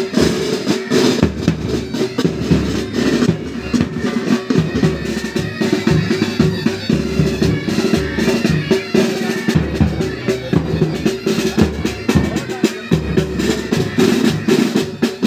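Military pipe band playing: bagpipes hold steady drones and melody over rapid side-drum strokes and bass drum beats.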